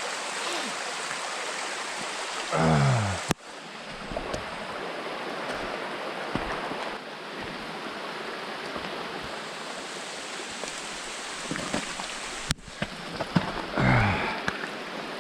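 Small mountain stream flowing steadily, a constant rush of water. A short wordless voice sound comes twice, about three seconds in and near the end, and the water sound drops out abruptly for a moment twice.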